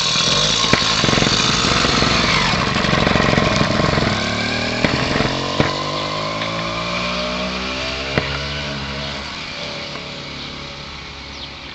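48cc two-stroke bicycle engine kit revving as the bike pulls away, its pitch climbing as it accelerates, then fading as it rides off. A few sharp ticks are heard over it.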